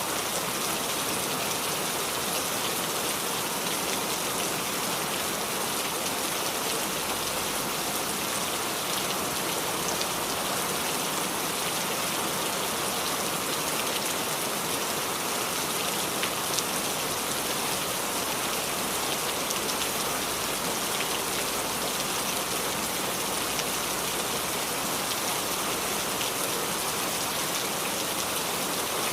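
Steady rain falling and dripping on a small tree: an even hiss filled with many fine drop ticks, one slightly louder drop about sixteen seconds in.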